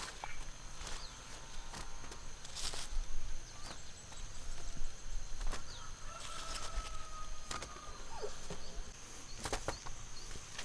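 Chickens clucking with scattered clicks and knocks, over a steady high-pitched whine.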